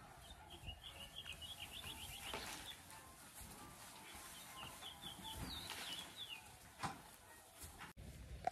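A bird chirping in two quick runs of repeated notes, the first about half a second in and lasting some two seconds, the second around five and a half seconds in. A few faint knocks fall between them, the sharpest about seven seconds in.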